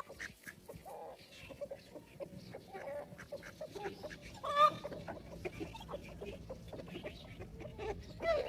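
Free-range chickens clucking in a steady run of short calls, with one louder call about halfway through and another near the end.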